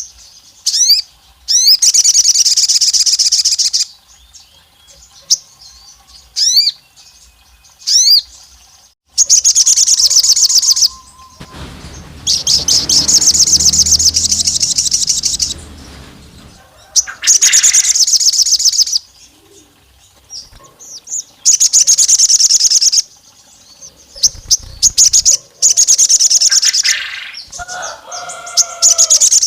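Sogon singing: bursts of rapid, high trilling a second or two long, repeated every few seconds, with a few short rising whistles at the start. A low rumble sits under the song for a few seconds in the middle.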